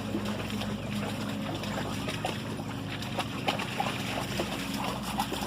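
A steady low motor hum, with water trickling and small scattered splashes and ticks.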